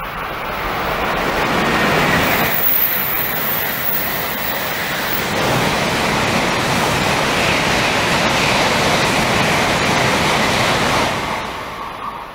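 Shinkansen bullet train passing close by at speed: a loud rushing noise of air and wheels on rail that builds over the first two seconds, holds, and fades away from about eleven seconds in.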